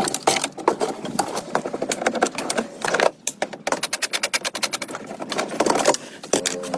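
Rapid mechanical clicking or tapping from a workshop machine or tool, with a brief pause about three seconds in.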